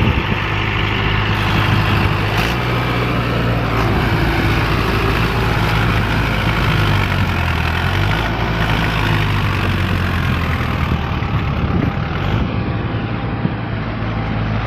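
Diesel tractor engine running hard under load, its speed rising and falling as it strains to pull a rotavator out of mud.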